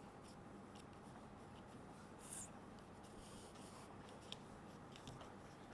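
Faint rubbing and scratching of glue being applied to the edges of paper craft circles, with a brief, slightly louder scrape a little over two seconds in.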